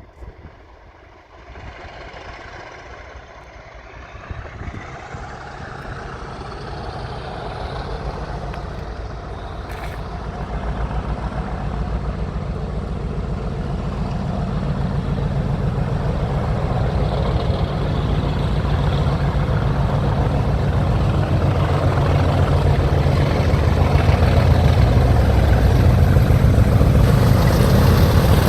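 Heavy diesel locomotive engines, GBRf's Class 56 and Class 50 working in tandem, running with a pulsing low rumble that grows steadily louder as the train approaches.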